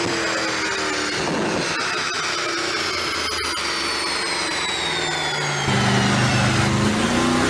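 Car engine running, with a high whine that slowly falls in pitch. The engine note gets louder and deeper-toned about six seconds in.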